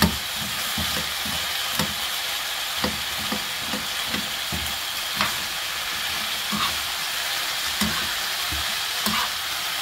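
Julienned potatoes and carrots sizzling in oil in a frying pan, with a steady hiss, while a spoon stirs them and knocks and scrapes against the pan at irregular moments.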